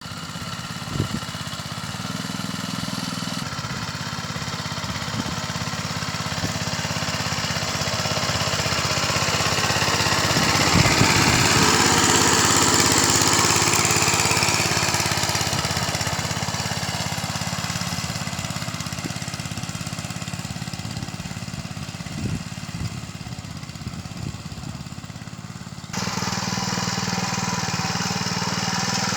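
Small engine of a single-wheel tractor running steadily, growing louder to a peak about halfway through and then easing off, with a few knocks along the way.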